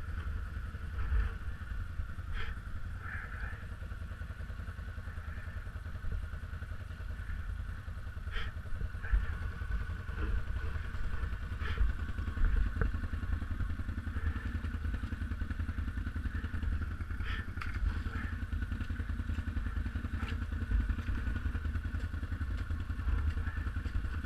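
BRP off-road vehicle engine running steadily at low revs, with scattered knocks and clatter.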